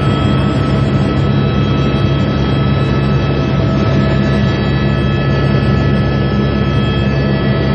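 Helicopter in flight: a steady drone of engine and rotor with several constant whining tones over it, unchanging throughout.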